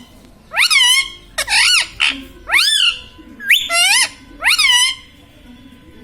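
Indian ringneck parakeet giving about five loud, high calls in a row, each sweeping up and then down in pitch.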